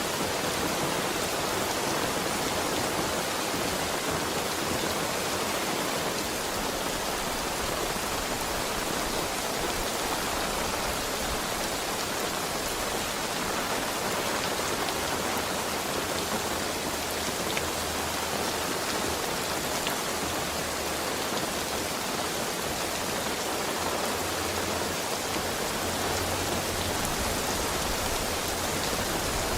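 Heavy rain falling, a steady, dense hiss of rain on a surface.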